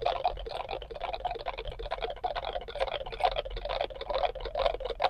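About twenty NE555 raindrop-imitating circuits playing together through small speakers, all set to full speed: a dense, rapid patter of electronic drip clicks, falling into a rough rhythm.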